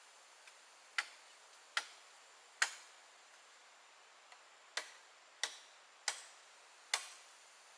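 Seven sharp knocks at uneven intervals, each with a brief decaying tail.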